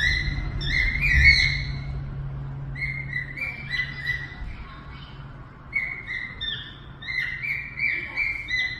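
A small pet bird chirping: quick runs of short, high calls, several notes to a run, repeated throughout.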